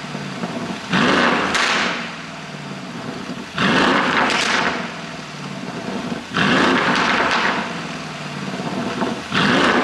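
Mercedes-AMG GLE63's twin-turbo V8 revved in four sharp blips about every three seconds, each climbing quickly and falling back, with exhaust pops and crackles on the overrun from a pop-and-burble ECU tune.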